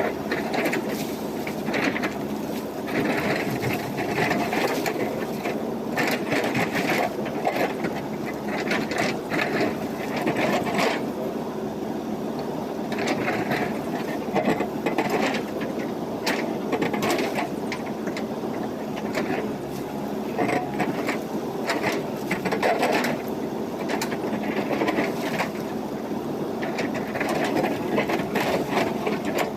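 Backhoe loader's diesel engine running steadily under working load, with repeated clattering and rattling that comes and goes every second or two as the machine works gravel.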